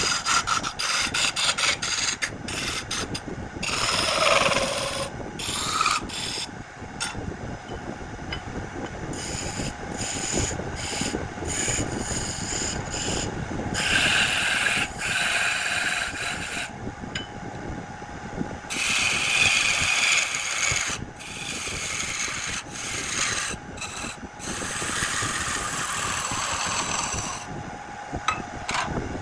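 Jackfruit wood spinning on a lathe while a tool works it, in repeated irregular bursts of scraping noise over the steady hum of the machine.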